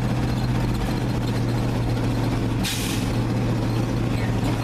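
Engine of a 1950s air-braked dump truck running steadily as it is held back on the brakes going downhill with a load of gravel. A short hiss of air from the air brakes comes about two and a half seconds in.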